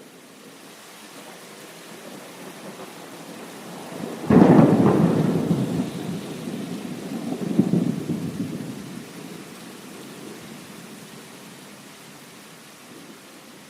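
Steady rain with a thunderclap about four seconds in: a sudden sharp crack, then a rolling rumble that swells again a few seconds later and dies away.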